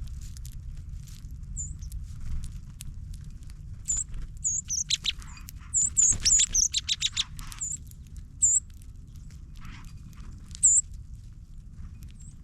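Small songbirds giving short, sharp, high chip notes, a few scattered at first, then a quick run of them near the middle and single chips later, over a steady low rumble.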